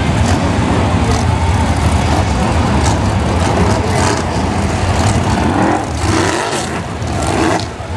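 BriscaF1 stock cars with V8 engines running around the oval in a pack, a continuous low engine rumble that dips briefly near the end.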